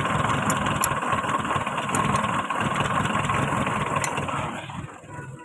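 Toyota 4K inline-four engine idling steadily, its ignition timing just reset from too far advanced to correct. The sound drops off sharply near the end.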